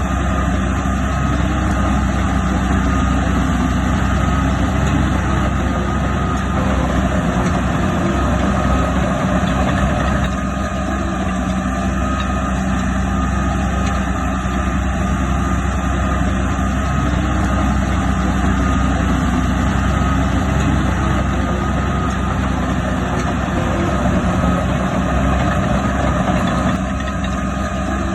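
The heavy diesel engine of earthmoving machinery running steadily, with a constant low hum.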